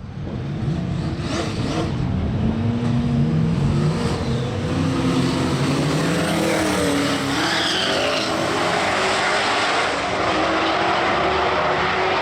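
Street-car engines at full throttle in a roll race. The engine note climbs in pitch and drops back at each gear change several times in the first eight seconds, then gives way to a steadier, noisier rush.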